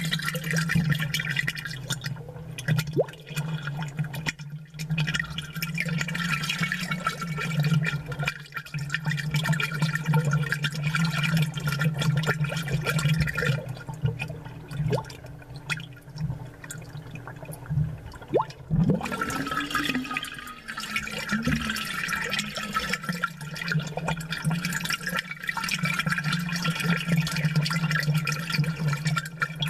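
Aquarium water bubbling and gurgling, with air bubbles splashing at the surface over a steady low hum. There is one sharp knock a little past the middle.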